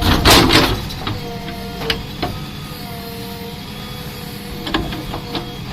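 JCB backhoe loader working: its hydraulics whine steadily over the engine's rumble, the pitch wavering up and down. A loud rough burst about half a second long comes at the start, and a few sharp knocks follow later.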